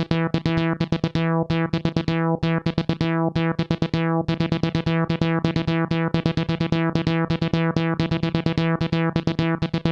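Roland SH-201 virtual-analog synthesizer playing one of its factory arpeggios: a fast, even run of plucked notes, each starting bright and quickly turning dull, over a steady low note.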